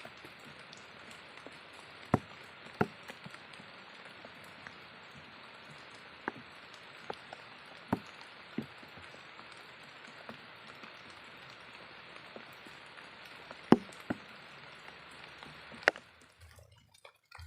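Steady rain falling, with scattered louder drops landing close to the microphone. The rain noise cuts off suddenly near the end.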